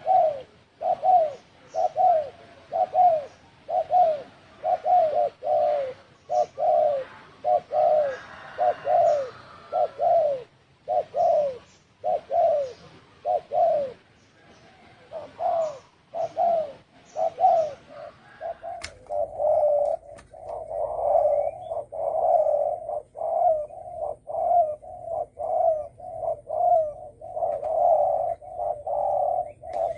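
Spotted dove cooing over and over in the rolling 'thổ sấm' call, a steady series of short low coos about one or two a second. About two-thirds of the way through, the cooing becomes faster and runs together, with a faint hum behind it.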